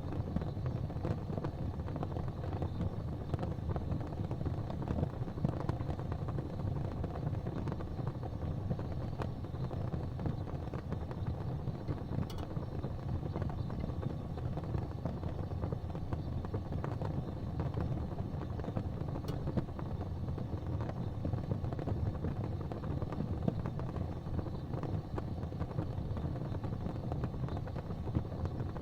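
Gas fireplace flames burning with a steady, low, even rush and a fine flicker, with two faint ticks.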